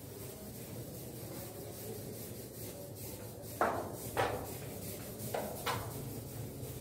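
Blackboard duster wiping chalk off a chalkboard: four short swipes in the second half, over a low steady hum.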